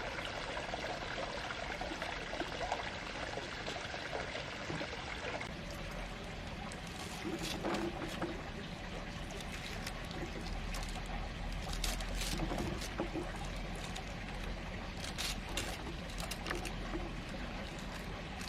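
Water running steadily, with scattered small clicks and knocks over it.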